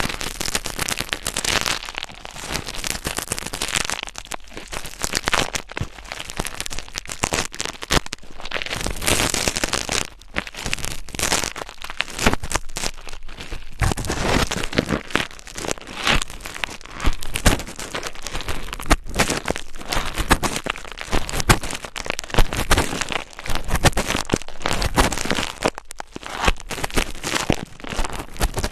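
Close-miked ASMR scratching: dense, rapid crackling and scratching against the microphone in uneven surges.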